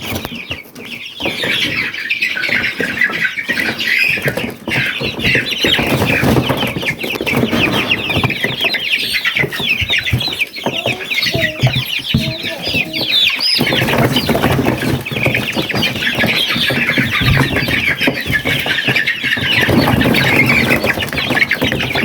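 A crowd of young chickens peeping and clucking together in a dense, continuous chorus of short high chirps, with scattered knocks and rustles among them.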